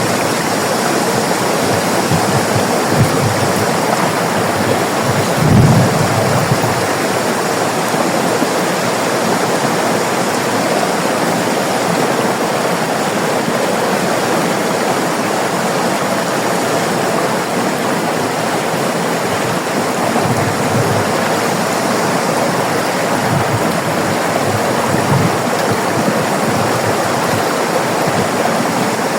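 River water flowing steadily over rocks, a dense even rushing, with a brief low thump about five and a half seconds in.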